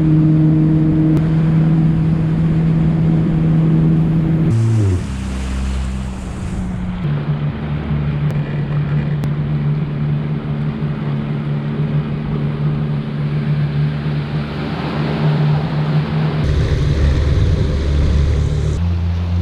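Yamaha FX Cruiser HO WaveRunner's four-stroke engine running under way, with water rushing and wind noise. The engine note drops about five seconds in, then holds steady, and changes again near the end.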